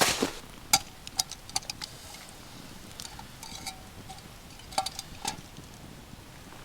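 Scattered sharp clicks and knocks, a quick cluster about a second in and two more near five seconds, some with a brief ring.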